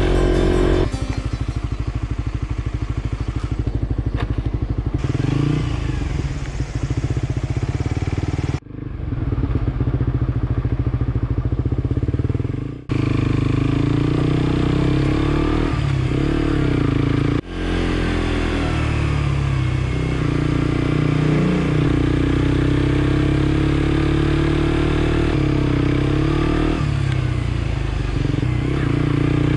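Suzuki GSX-S125's single-cylinder four-stroke engine running on the move, its revs rising and falling. The sound breaks off and changes abruptly about three times.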